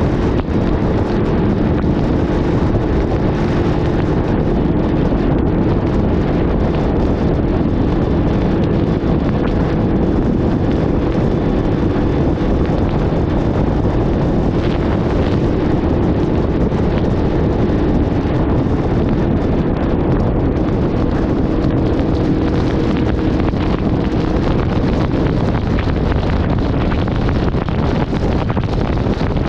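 Honda VFR800 V4 engine at a steady cruise, its held note buried under heavy wind rushing over the microphone.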